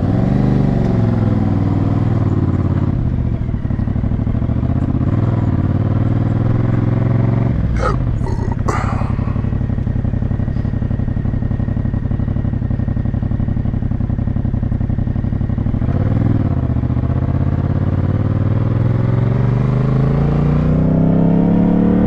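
Motorcycle engine running under way: its pitch falls as it slows at first, holds steady, then climbs as it accelerates near the end. A brief, sharp sweeping sound cuts in about eight seconds in.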